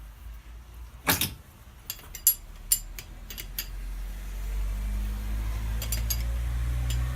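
A few sharp clicks and knocks, the loudest about a second in, then a low rumbling hum that builds from about four seconds in and holds steady.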